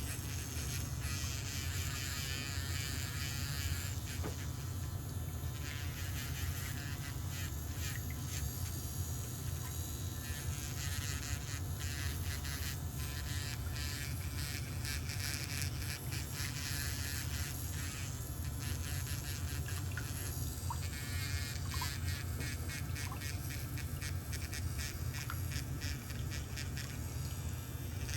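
Small electric nail drill running with a steady buzz as it files down a thickened, fungus-affected toenail, with light scratchy scraping throughout.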